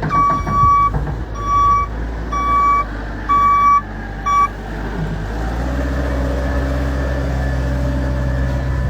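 A vehicle's reversing alarm beeps five times, about a second apart. About halfway through, a vehicle engine starts running steadily.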